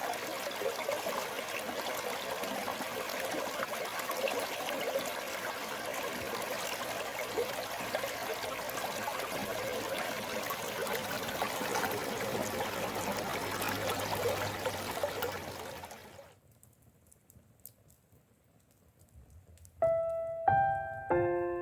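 Stream water flowing in a steady rush that fades out about three quarters of the way through. After a few seconds of near silence, slow piano notes begin near the end.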